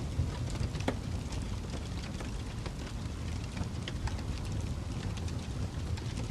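Fireplace crackling: a steady low rumble of burning with scattered sharp pops and snaps, one louder pop about a second in.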